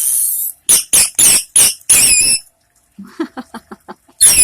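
Indian ringneck parakeet screaming: a rapid run of about six loud, shrill calls, then softer quick chatter, then one more loud scream near the end.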